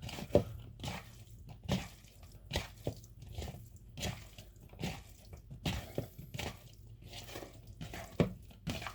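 Shredded chicken being stirred in a bowl with butter and Worcestershire sauce, a utensil making short wet clicks and squelches one or two times a second.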